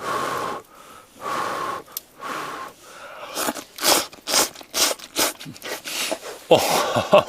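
A person slurping simmered udon noodles: three long slurps in the first three seconds, then a run of short, quick slurps and chewing, and another long slurp near the end.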